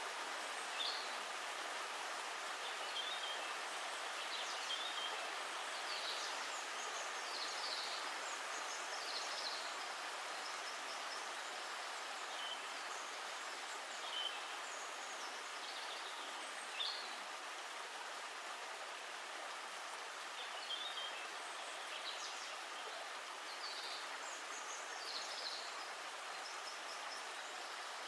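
Steady rush of running water, with small birds chirping now and then in short, high calls.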